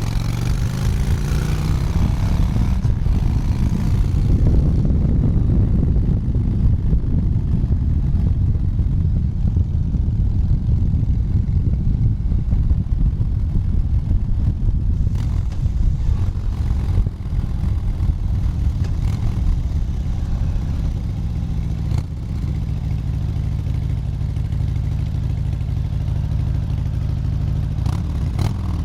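Motorcycle engine pulling away and rising in pitch over the first few seconds, then running steadily at road speed, with two brief dips in level later on.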